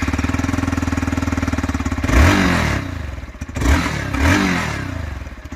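Hero Xpulse 200 4V motorcycle's single-cylinder engine idling through its stock exhaust with a steady, even beat, blipped three times with the throttle from about two seconds in, each rev rising and falling back to idle.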